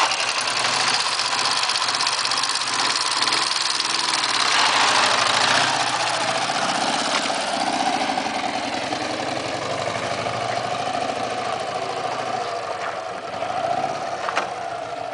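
Ural motorcycle's flat-twin engine running, getting louder about five seconds in and then slowly easing off.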